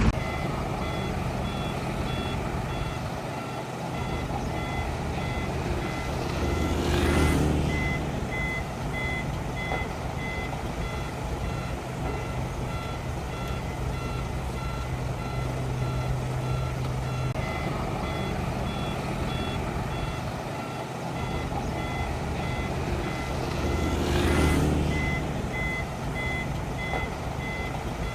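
Backup alarm of heavy earthmoving machinery beeping in a steady, regular series over a running diesel engine. The engine swells louder twice, about a quarter of the way in and again near the end.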